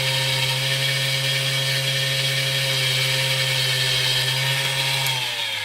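Small electric power drill running steadily at speed while enlarging a hole in brass tube, then winding down with a falling whine about five seconds in.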